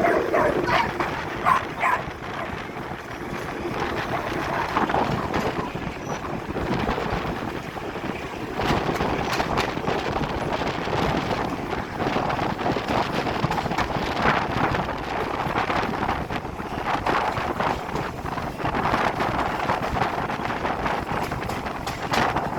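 Ceres Rail train passing on the line: a steady rushing rumble with many short clicks and knocks, and wind on the microphone.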